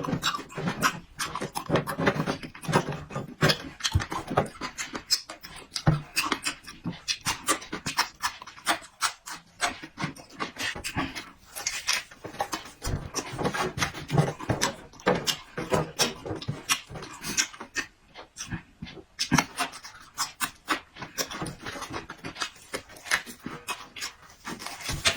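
A person eating noisily close to the microphone, chewing and smacking: many quick clicks in an uneven rhythm.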